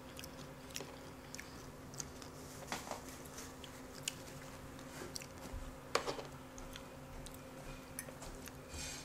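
Quiet close-miked chewing and small mouth noises from eating deep-fried catfish, with scattered faint clicks and a couple of sharper ones about three and six seconds in.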